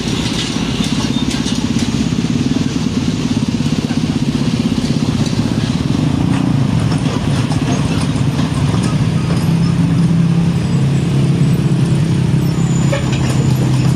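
Heavy diesel truck engine running at close range: a steady low drone with a fast pulsing beat. Its tone shifts about nine seconds in.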